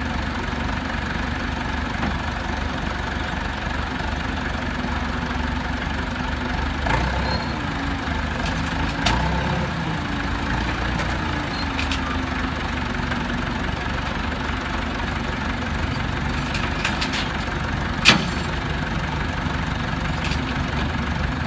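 Tow truck engine idling steadily, with a wavering whine for a few seconds about a third of the way in. A few sharp knocks come through, the loudest a single clang near the end.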